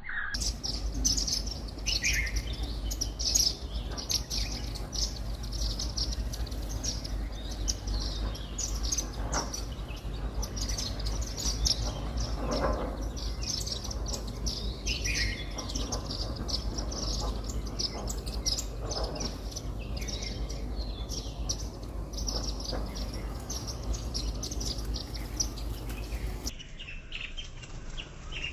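A flock of Indian silverbills chirping continuously with many short, high, overlapping notes while feeding, over a low steady rumble.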